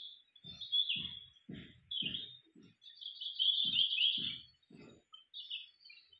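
Small birds chirping in quick twittering bursts, loudest a little past the middle, with short soft low thumps about twice a second underneath.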